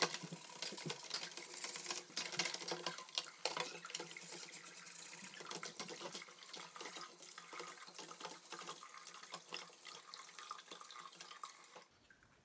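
Kitchen faucet running cold water over a stainless-steel double honey strainer while it is scrubbed, with many short clicks and scrapes through the rush of water. The cold rinse is meant to harden the beeswax so it flakes off the mesh. The water cuts off near the end.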